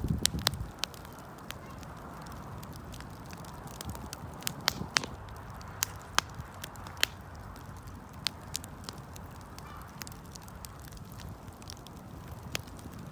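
Wood campfire crackling: sharp, irregular pops and snaps from the burning wood over a steady hiss of the flames. There is a low rumbling swell at the start and again near the end.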